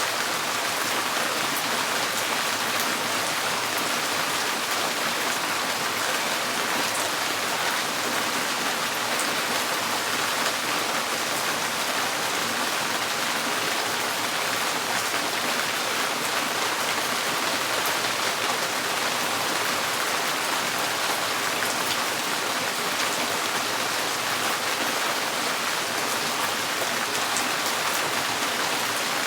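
Steady rain drumming on a tin porch roof: a dense, even patter of drops on sheet metal.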